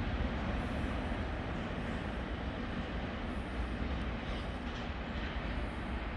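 A train moving through the station: a steady noise of wheels on rail and running gear.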